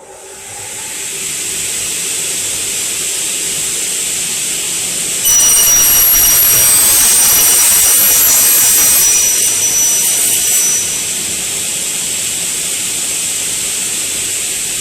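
08S double-head aluminium cutting saw's motors starting and spinning up to speed, then running with a steady high whine. About five seconds in it gets louder and harsher, with ringing high tones, for about five seconds, typical of the blades cutting through an aluminium profile, then it runs on steadily.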